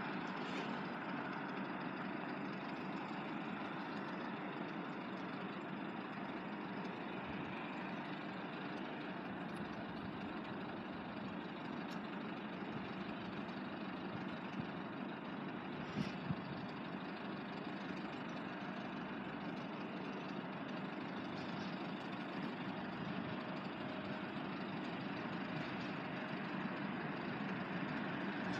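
Class 172 diesel multiple unit's engine idling steadily while the train stands near the level crossing, with two short clicks about halfway through.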